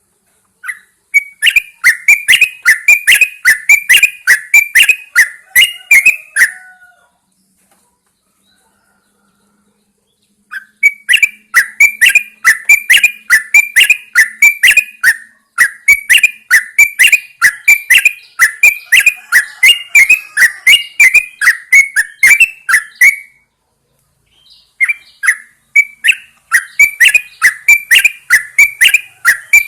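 Yellow-vented bulbul calling in long runs of quick, evenly repeated sharp notes. There are three bouts, with a pause of a few seconds after the first and a shorter one after the second.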